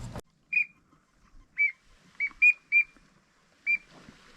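Six short, high whistled calls, spaced irregularly, each ending in a quick downward flick in pitch.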